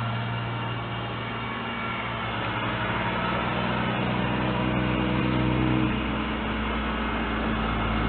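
A motor vehicle's engine running steadily as it drives, with a shift in engine pitch about six seconds in.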